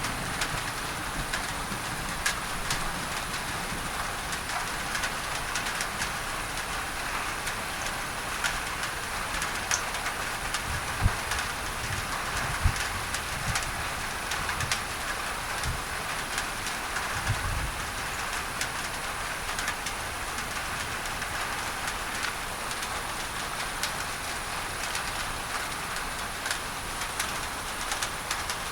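Steady rain falling on a tin roof, mixed with an even masking noise, with many small drop clicks throughout. A few brief low thuds come near the middle.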